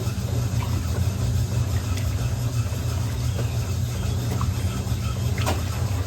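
Electrolux LM08A top-loading washing machine running with a load of towels: a steady low motor hum, with a sharp click about five and a half seconds in.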